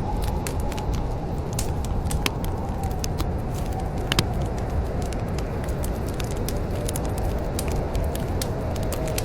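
Wood fire in a fireplace crackling, with irregular sharp pops over a steady low rumble of flames. One louder pop comes about four seconds in.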